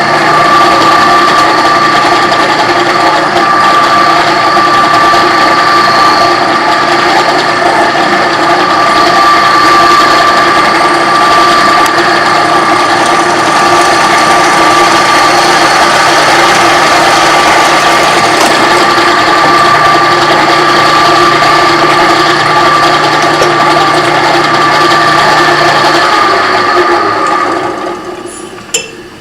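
Drill press running steadily as a 15/64-inch pilot bit drills through a metal rod end, a loud even whine that winds down near the end as the press is switched off.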